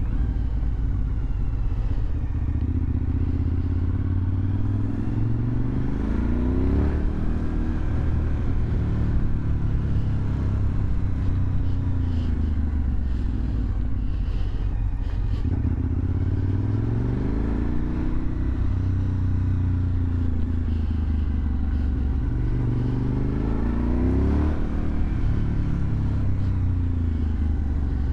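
Suzuki TL1000R's V-twin engine through a LeoVince aftermarket exhaust, pulling hard under acceleration. The revs climb and drop back at each gear change, several times over.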